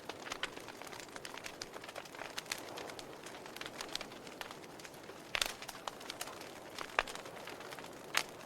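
Wood fire in a fireplace crackling: irregular sharp pops and snaps over a steady rush of burning flame, with the loudest pops about five and a half, seven and eight seconds in.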